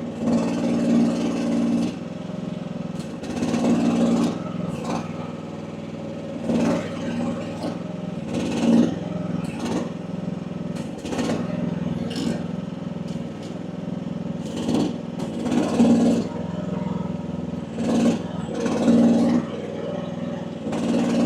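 Small mini excavator's engine running steadily while its hydraulics work, with a louder surge every couple of seconds as the boom and bucket are put under load. The relief valve is set to about 2100 PSI, where the engine is not struggling.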